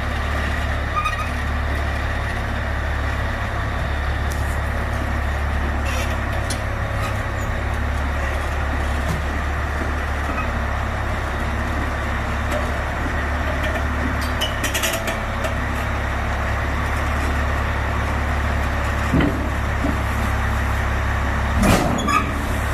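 Large diesel engine of heavy equipment running steadily with a deep, continuous rumble, and a few short sharp sounds on top of it, the loudest near the end.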